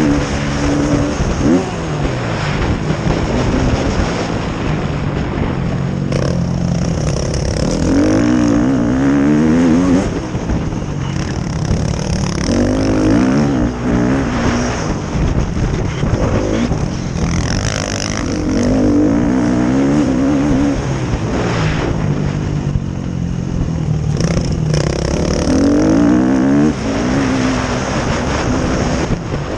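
Motocross bike engines revving hard and easing off in repeated surges every few seconds, as bikes race over a dirt track.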